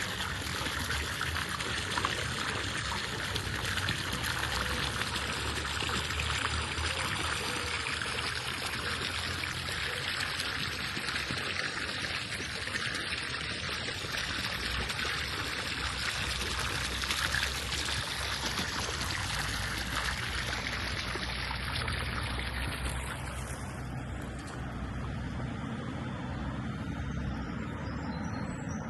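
Steady rushing and splashing of running water, as from a fountain or small cascade; its higher hiss falls away near the end.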